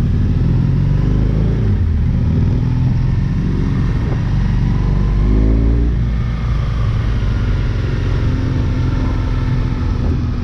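BMW R1200GS Rallye's boxer-twin engine running under way uphill, its pitch rising twice as the rider opens the throttle, about a second in and again about halfway through, over a steady rush of wind noise.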